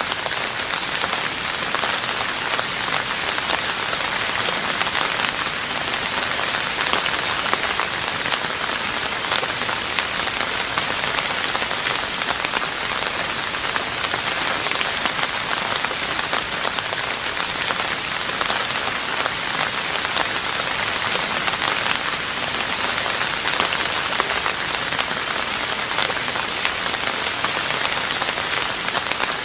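Steady heavy rain falling on a roof: a dense, even hiss of countless drops, with individual drop hits ticking through it.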